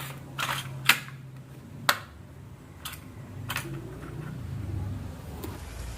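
Marbles clacking on a marble run track: a handful of sharp clicks at irregular intervals about a second apart, over a low steady hum.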